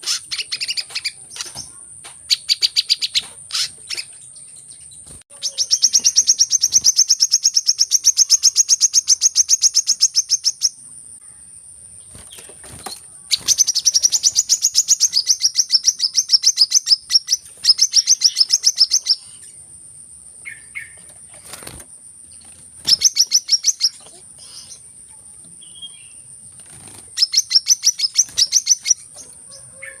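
Sunbird calls: long, very rapid high-pitched trills that come in bursts of one to five seconds, with short pauses between them, over a constant high-pitched tone.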